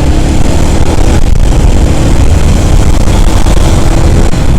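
Riding a motorcycle through city traffic: a steady, loud low rumble of the bike's engine and road and wind noise on the rider's microphone, with the hum of surrounding vehicles.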